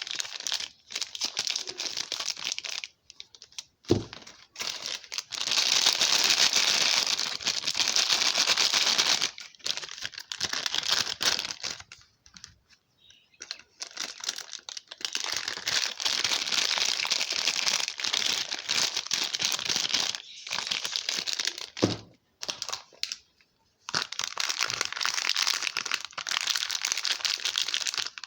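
Wrapping crinkling and tearing as soap bars are unpacked by hand, in long rustling stretches with short pauses. There are sharp knocks about 4 seconds in and again about 22 seconds in.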